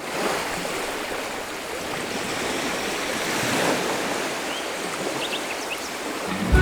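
Sea surf washing onto a sandy beach: a steady hiss of breaking waves that swells and ebbs, with a few faint short high chirps in the second half.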